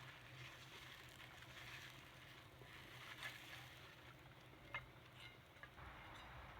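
Near silence: a faint steady hiss, with a few light clicks a little before the end.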